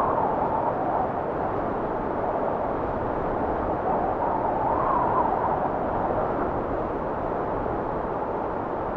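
Blizzard wind blowing steadily, with a faint whistle that swells and rises in pitch about four to five seconds in.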